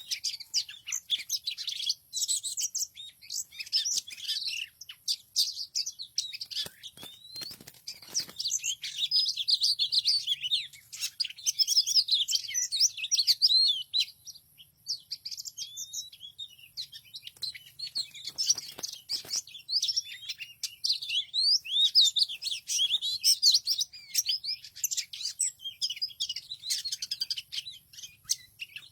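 Many small birds chirping and twittering at once, a dense, unbroken chatter of short high notes. Brief clusters of clicks or taps come in about a quarter of the way in and again past the middle.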